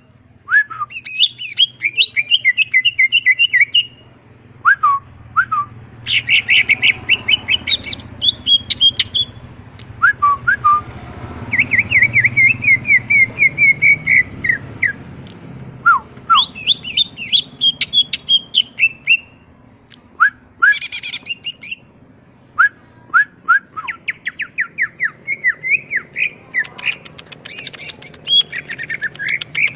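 Green leafbird (cucak ijo) singing a varied, fast song of chirps, trills and whistled notes, in bursts of a few seconds broken by short pauses, over a faint low hum. It is a lure and tutor song meant to make other leafbirds answer.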